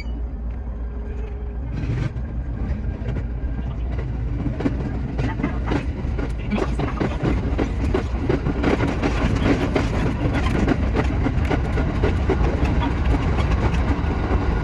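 Shinano Railway SR1 series electric train running, a steady low rumble with rapid clicks from the wheels over the rail, growing louder and busier from about two seconds in.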